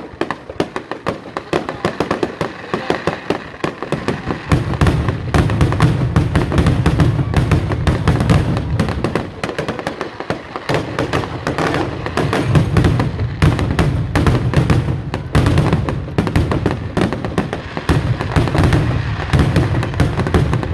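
Fireworks going off in a dense, continuous barrage of crackles and pops, growing heavier about four seconds in.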